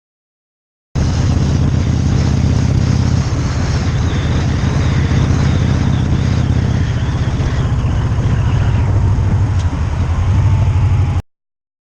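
Motorcycle engine running steadily under way, with wind rush over the microphone. It starts and cuts off abruptly.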